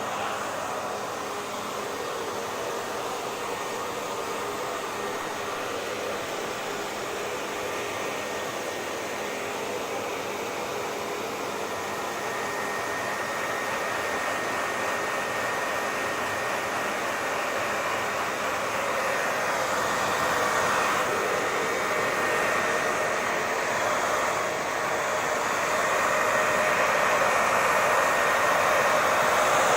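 Hair dryer running continuously: a steady rush of air with a faint whine in it, growing gradually louder over the second half.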